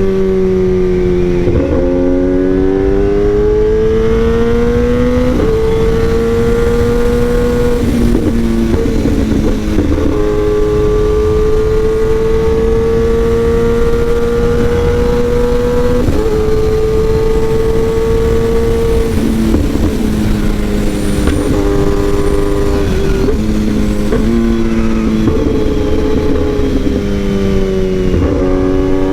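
Kawasaki ZX-10R inline-four engine running through an SC Project aftermarket exhaust while riding. The engine note climbs and drops in pitch several times with throttle and gear changes, over a rush of wind noise.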